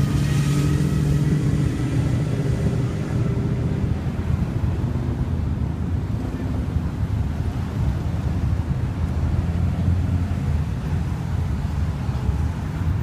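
Car engine and road noise: a steady low rumble with engine tones that shift slightly in pitch.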